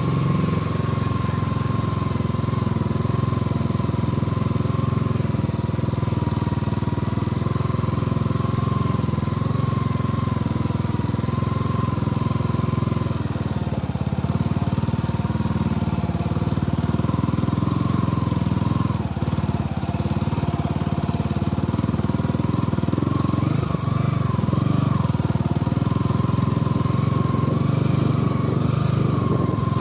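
Motorcycle engine running steadily while riding, with a slightly wavering whine over a constant low drone.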